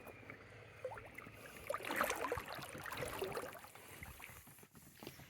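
Faint irregular water sounds: small splashes and trickling of clear creek water, busiest in the middle and fading toward the end.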